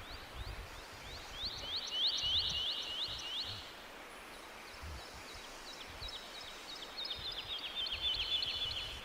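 A songbird singing two trilled phrases of quick, repeated down-slurred whistled notes, the second phrase faster, over steady outdoor background noise.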